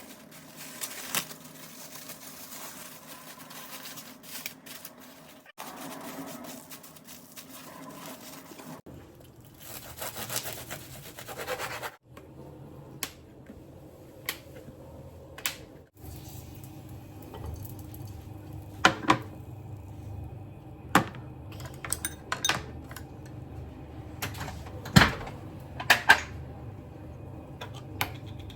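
Kitchen handling sounds: dishes, containers and utensils clinking and knocking, in several short cut-together clips with sharp knocks near the end.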